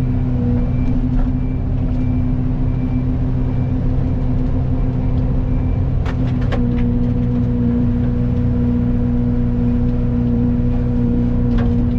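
Excavator's diesel engine and hydraulics running steadily under working load, with a faint repeating beep during the first few seconds and a couple of short clicks.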